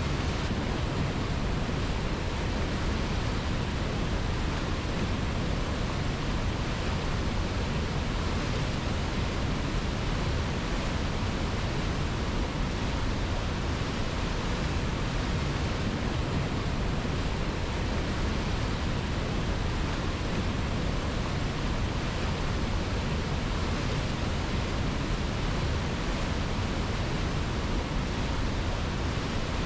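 River water rushing in a steady, unbroken hiss, with no splashes or changes.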